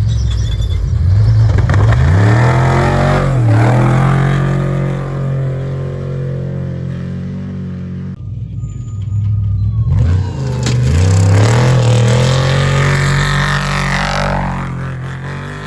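Trophy Truck Spec race truck engines at full throttle, the pitch dipping and climbing again several times as the drivers lift off and get back on the gas. Two separate runs, with an abrupt change about eight seconds in.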